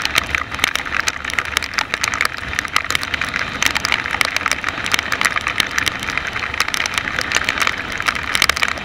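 Rain striking close to the microphone, a dense run of sharp drop hits, over a steady rush of wind and wet-road noise from a moving vehicle.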